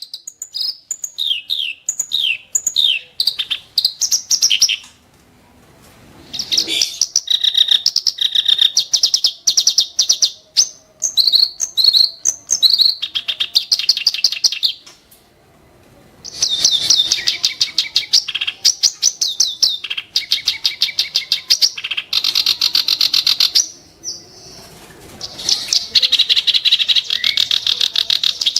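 Black-browed reed warbler singing: long bouts of fast, harsh, chattering phrases of rapidly repeated sharp notes, broken by three brief pauses.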